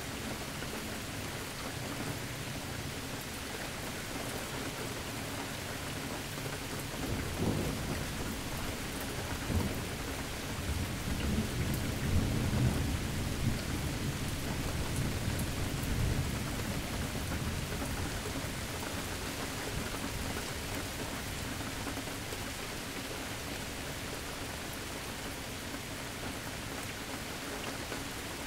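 Steady rain falling, with a long roll of thunder rumbling in about a quarter of the way through, loudest near the middle and dying away after it.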